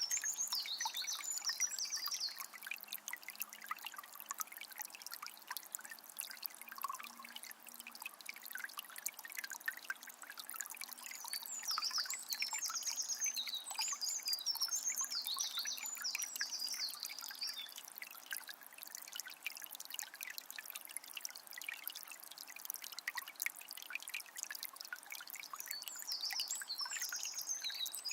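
Water of a small spring trickling and splashing steadily. Birdsong comes over it in three spells of quick high chirps: at the start, in the middle, and near the end.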